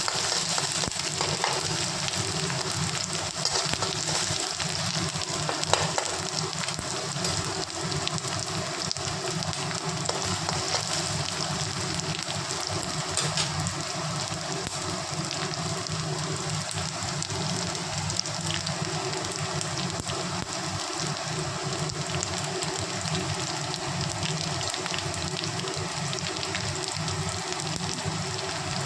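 Chopped ginger and garlic sizzling in hot oil in a pan: a steady crackling hiss with one louder pop about six seconds in.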